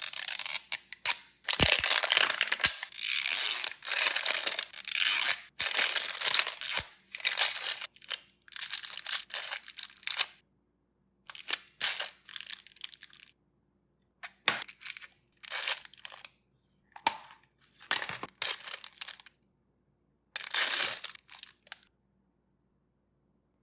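Plastic and foil toy packaging being crinkled and torn open by hand, in bursts of rustling with short pauses between them, and a few sharp clicks in the first seven seconds.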